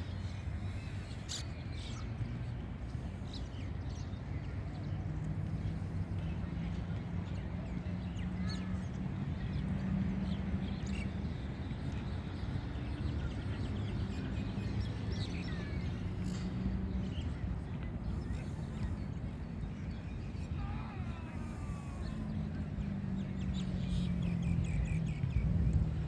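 Birds calling now and then: short scattered chirps and calls, with one longer gliding call about three-quarters of the way through, over a steady low hum.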